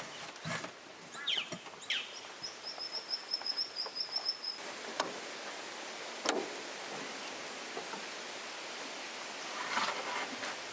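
Wild birds calling over a steady outdoor hiss, including a rapid high trill of short, evenly spaced notes lasting about two seconds. Two sharp clicks come near the middle, the second one the loudest sound here.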